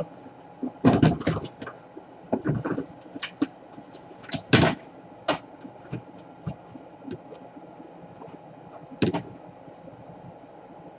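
Insulation tape being handled and applied: irregular small clicks and short rustling noises, the longest about four and a half seconds in, over a faint steady hum.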